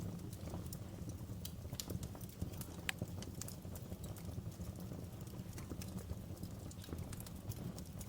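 Wood fire crackling: frequent irregular sharp pops and snaps over a steady low rumble, with one of the sharpest pops about three seconds in.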